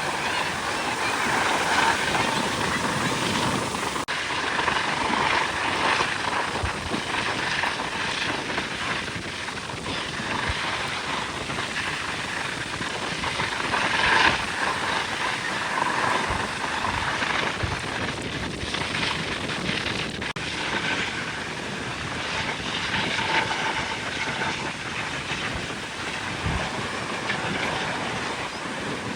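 Aircraft engines droning at an airshow, a steady noise that swells and eases, loudest briefly about halfway through.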